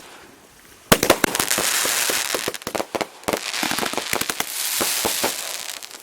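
Consumer multi-shot firework cake going off: a rapid string of sharp bangs with crackling starting about a second in, thinning out near the end.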